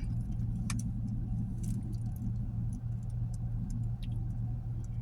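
Steady low hum of a parked car's engine running, heard inside the cabin, with a few faint small clicks.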